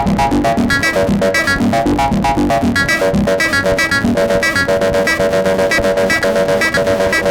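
Noisy electronic techno played on Make Noise semi-modular synthesizers: a fast, even pulse of short sequenced synth notes with a repeating higher-pitched pattern, and from about halfway a mid-pitched pair of notes held longer.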